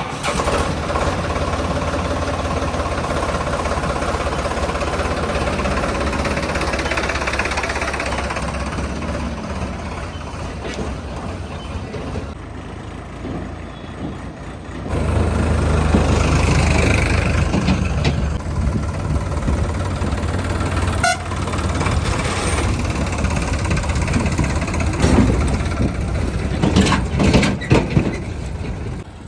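Sonalika DI-35 tractor's diesel engine running while working, with a short quieter break about halfway and louder running after it, and a few sharp knocks near the end.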